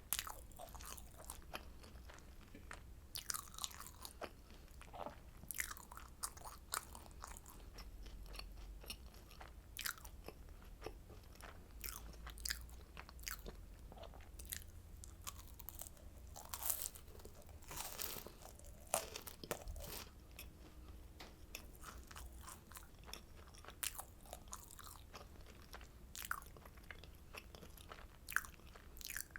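Close-miked crunching and chewing of oranda, a Korean candy of puffed grain bound with syrup, with irregular sharp crackles as it is bitten and chewed.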